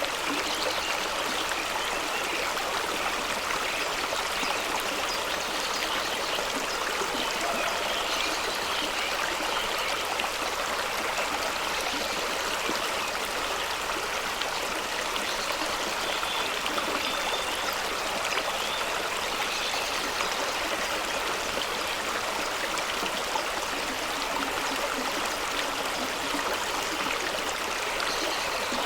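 Fast-running stream rushing and splashing over rocks: a steady, unbroken water noise with small gurgles and trickles in it.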